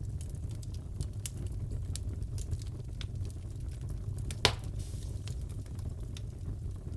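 Wood fire burning in a fireplace, with a steady low rumble and scattered crackles and pops. One loud sharp pop comes about four and a half seconds in.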